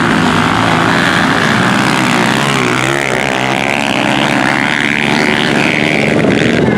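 Small single-cylinder CG-class motorcycle engines racing, several running at once, their pitch rising and falling as they rev and shift.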